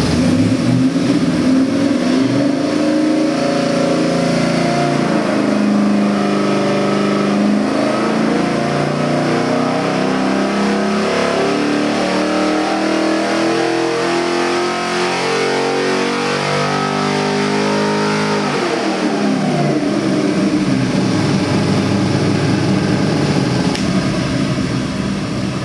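LS3 376 cubic inch V8 crate engine on an engine dyno making a pull under load: its note climbs steadily in pitch for about twelve seconds. About eighteen seconds in, the throttle closes and the revs fall quickly back toward idle.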